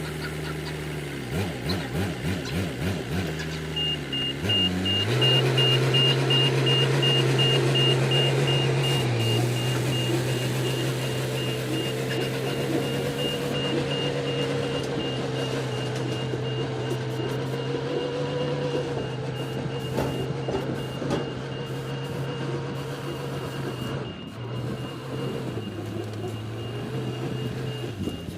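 Heavy truck engine running while moving, with a backup alarm beeping rapidly and steadily from a few seconds in.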